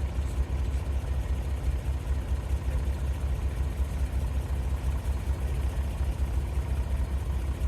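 Doosan DX35z mini excavator's diesel engine running steadily with a deep, even drone.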